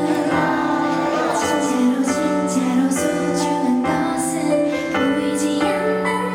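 K-pop girl group singing live over the song's backing track through a concert sound system: female vocals with held, bending notes over a steady instrumental bed.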